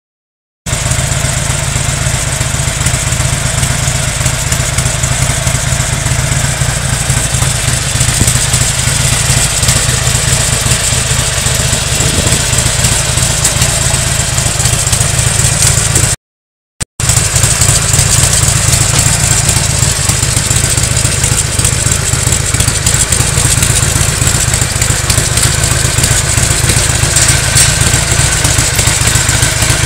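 Harley-Davidson Sportster XL1200N Nightster's 1200 cc Evolution V-twin idling steadily through North American-spec mufflers. The sound cuts out briefly a little past halfway, then the idle resumes.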